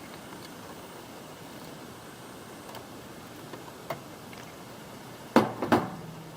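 Faint steady hiss with a few light clicks, then two sharp knocks a third of a second apart about five seconds in, as the RC model is handled; its motor is not running.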